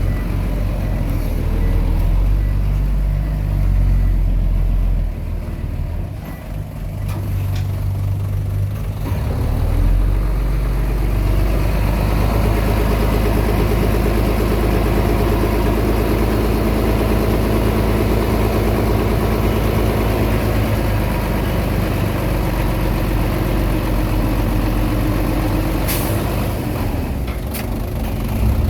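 Komatsu D20P bulldozer's diesel engine running hard while working soil. The level dips about six seconds in, then builds and holds steady under load from about ten seconds.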